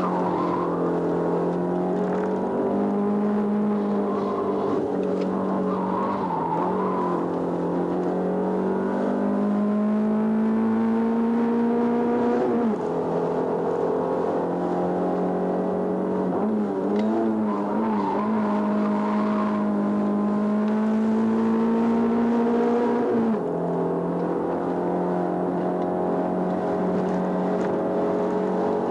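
Racing car engine heard from inside the cabin, driven hard up a twisting hillclimb road. Its pitch climbs steadily and falls sharply twice, about halfway through and again near the end, and wavers briefly in between as the throttle is worked through the bends.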